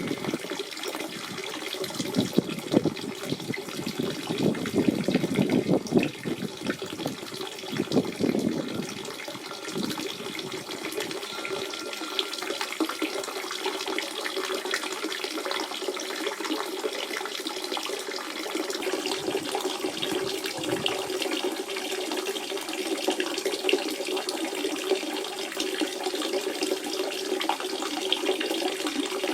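Natural spring water running and splashing in a steady, bubbling flow, with deeper gurgling in the first several seconds.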